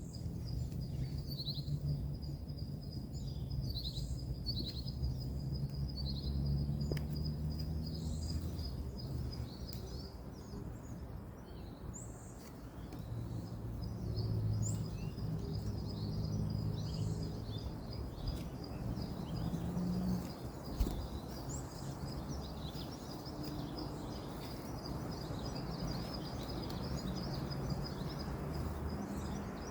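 Woodland ambience: birds chirping repeatedly over a steady high-pitched trill, with a continuous low rumble of distant road traffic underneath.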